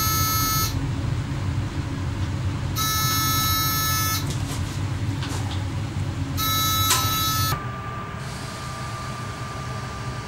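Electronic warning buzzer in a train driver's cab, sounding three times for a little over a second each, about three seconds apart, over the low rumble of the train. The rumble cuts off suddenly about seven and a half seconds in, leaving a fainter steady hiss with a thin high tone.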